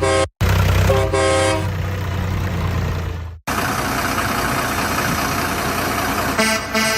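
A truck engine rumbling with two short horn toots, which cuts off abruptly about three and a half seconds in. A steady rushing noise follows, and another horn toot sounds near the end.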